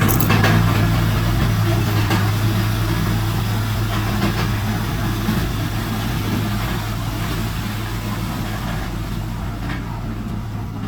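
Heavy diesel engine of an earthmoving machine running steadily: a constant low drone with mechanical noise above it.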